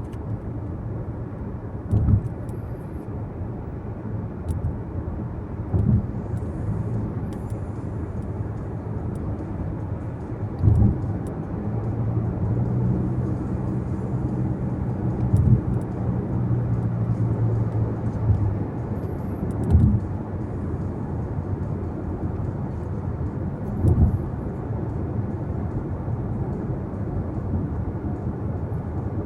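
Car cabin road noise while driving at speed: a steady low rumble of tyres and engine, with a short low thump every four seconds or so. A steady low hum rises over it for several seconds around the middle.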